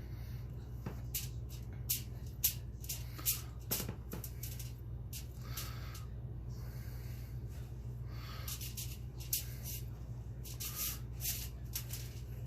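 Aluminium foil crinkling in short, irregular bursts as a cat moves on it, over a steady low hum.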